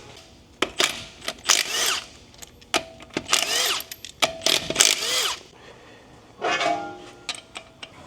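Cordless power tool run in a series of short trigger bursts, its motor whirring up and falling back in pitch each time.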